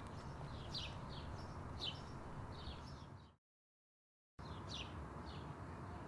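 Small birds chirping outdoors: short, high, falling chirps repeating every half second or so over faint outdoor background. The sound cuts out completely for about a second just past halfway, then the chirping resumes.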